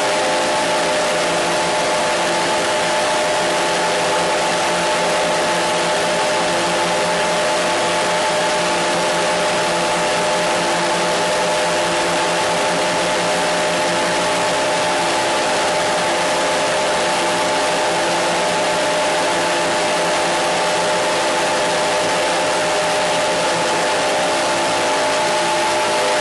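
Steady loud hiss with several unchanging humming tones beneath it, holding level throughout without pauses or events.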